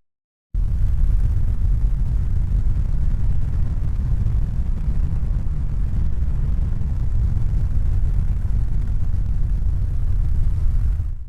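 Steady low rumbling noise with no clear pitch or rhythm, starting abruptly after a brief silence and fading out at the very end.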